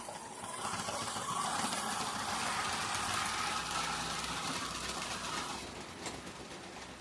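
Tyco HO-scale model diesel locomotive running on the layout track pulling cars: a steady whir and rattle of motor and wheels on the rails that rises about half a second in and drops away about five and a half seconds in. A single click follows shortly after.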